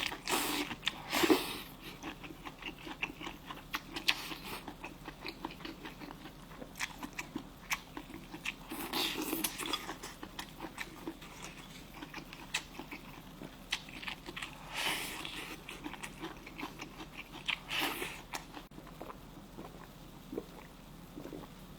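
A person eating close to the microphone: continuous chewing and wet mouth sounds, with a few louder bites or slurps scattered through.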